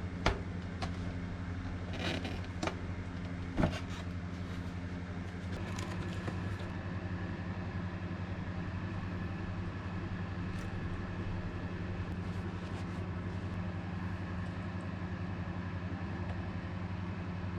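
Honda CBX550F motorcycle engine idling steadily, with a few sharp clicks and knocks in the first four seconds.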